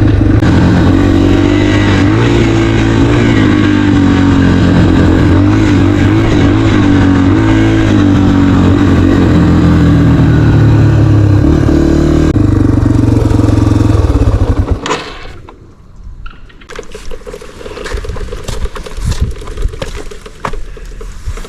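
Dirt bike engine running while riding, its pitch rising and falling with the throttle. About fifteen seconds in the engine sound drops away suddenly, leaving quieter scattered clicks and knocks.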